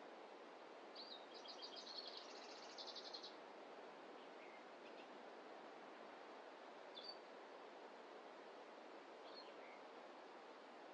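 A small songbird singing a rapid high trill of repeated notes about a second in, then two single short chirps later on. Underneath is a faint, steady hiss of outdoor ambience.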